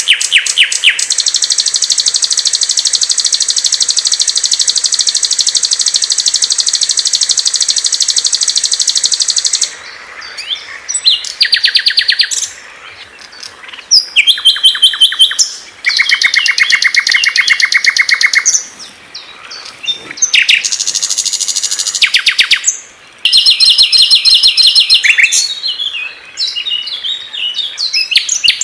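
Small songbirds singing high, rapid trills. One long, fast, buzzy trill lasts about nine seconds, then several shorter trills and chatters follow at different pitches, with short pauses between them.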